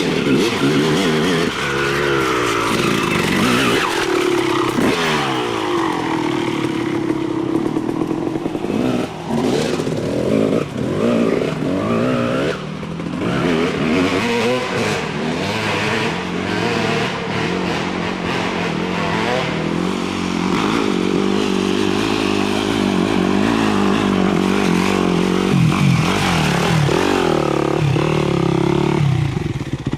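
Dirt bike engines revving, their pitch rising and falling repeatedly as the throttle is worked.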